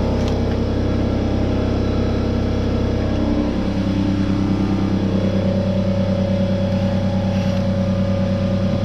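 Steady machine hum from a running motor, with a shift in its pitch pattern about three and a half seconds in.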